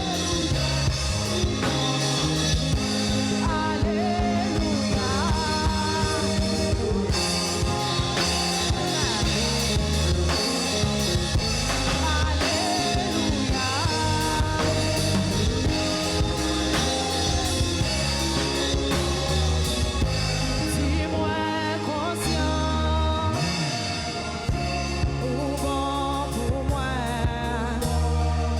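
A church worship band playing a gospel song: singing over a drum kit and a low bass line, with a steady beat.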